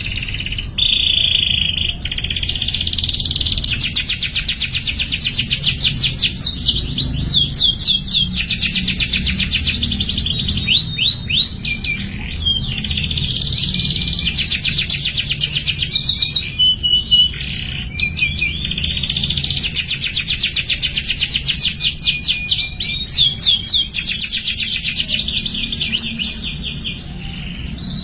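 Domestic canary singing: long, fast trills of rapidly repeated notes, broken by short pauses, with quick rising and falling sweeps between phrases.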